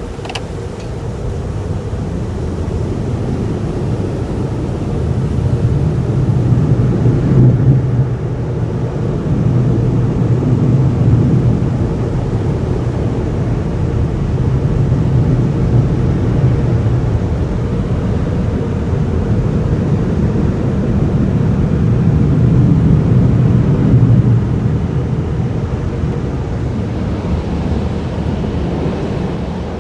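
Car wash tunnel dryers blowing: a loud, steady rush of air that swells and eases several times as the car moves past the blowers.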